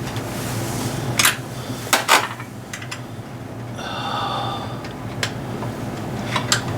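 Metal hand tools clinking and knocking against metal: a few sharp clicks about a second in, a quick pair around two seconds, and more near the end, with a short ringing tone in the middle, over a steady low hum.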